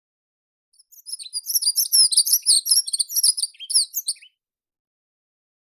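A meadow songbird singing one fast, jumbled phrase of very high chirps and twitters, starting about a second in and lasting about three seconds.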